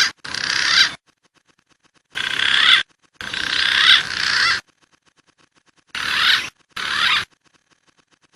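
Recorded wild pigeon calls used as a bird lure: short wavering high calls in pairs, about six calls, each starting and stopping abruptly, with faint ticking between them.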